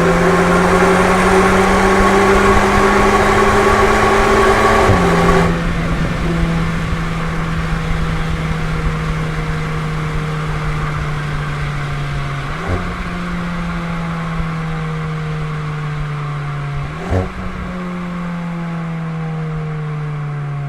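VW Golf 8 GTI Clubsport's turbocharged four-cylinder engine, breathing through an Akrapovic exhaust, pulling hard with revs climbing, then coming off the throttle about five seconds in. As the car slows, the revs sink and twice jump back up with a short crack as the gearbox downshifts.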